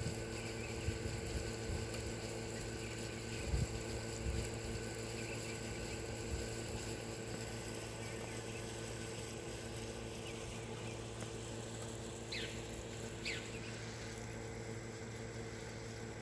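Faint bird chirps over a steady hum and outdoor background noise, with two short, sharp downward-sweeping calls about twelve and thirteen seconds in. A couple of low knocks from the phone being handled come a few seconds in.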